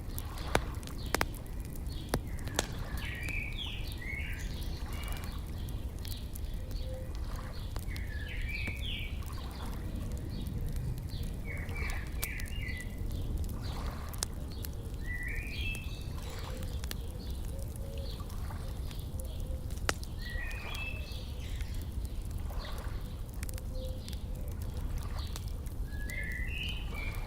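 A songbird singing short chirping phrases about every five seconds, over the scattered pops and crackles of a wood fire and a steady low rumble.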